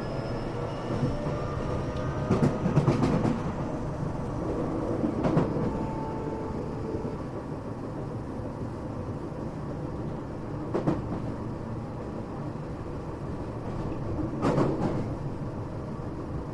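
Tokyo Metro 8000 series train heard from inside the car while running at speed. A faint, slightly rising motor whine fades out in the first few seconds, over a steady rumble of wheels on rail. The wheels knock over rail joints several times, the loudest about three seconds in and near the end.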